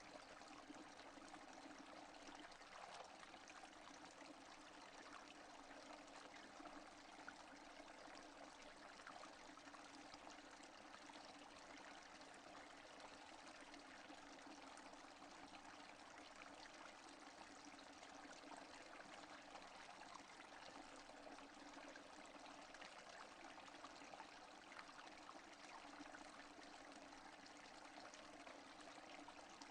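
Faint, steady rain falling with no thunder: an even hiss scattered with the small ticks of individual drops.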